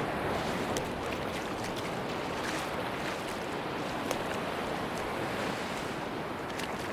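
Sea surf washing steadily on a beach, an even rushing noise with a few faint scattered clicks.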